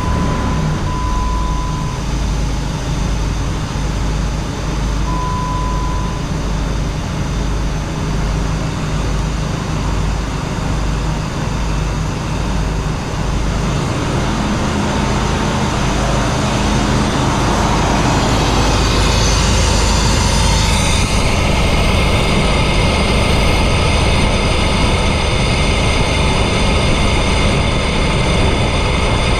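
Chrysler 4.7-litre V8 running steadily with a low, pulsing rumble, just after being started with a freshly replaced coil pack. A dash chime beeps at the start and again about five seconds in, and from about fourteen seconds in the sound grows fuller, settling into a steady run with a faint high whine.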